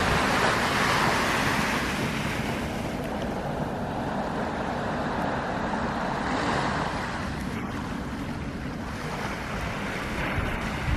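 Small sea waves washing onto a beach: a hiss of surf that swells about a second in and again around six seconds, over a low rumble of wind on the microphone.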